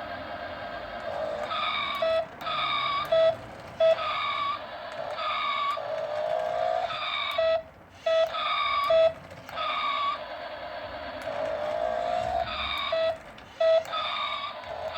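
Electronic engine sound effects from a toy RC Corvette's speaker: a steady synthetic engine hum broken by repeated short chirping tones, with two rising revs, about six and about twelve seconds in.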